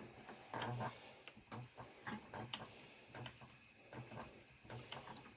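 Faint, irregular light clicks and soft taps: handling noise at a spinning wheel as yarn is worked by hand during plying.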